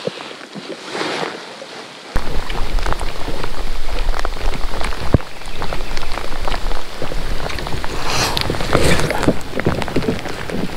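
Rain falling on lake water and on the kayak, a dense hiss full of sharp ticks from drops striking close by, with a low rumble underneath. It comes in suddenly about two seconds in, after a quieter stretch.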